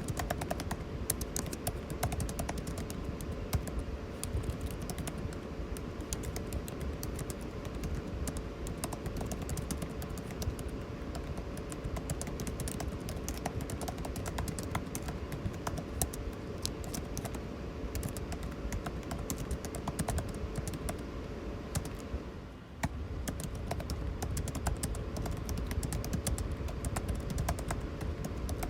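Continuous typing on a computer keyboard, rapid irregular key clicks, over the steady hum of air conditioning. The sound drops out for a moment about three quarters of the way through.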